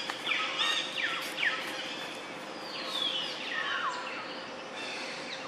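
Birds calling: a few quick whistled notes that slide steeply downward in pitch, in the first second or two and again around three to four seconds in, over a steady background hiss and a faint steady hum.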